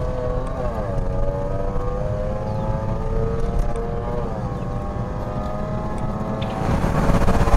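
Supercharged V8 of a Range Rover Sport SVR, heard from inside the cabin, pulling under acceleration: its note rises, drops briefly at a gear change and climbs again, over a heavy low rumble. It grows louder and rougher near the end.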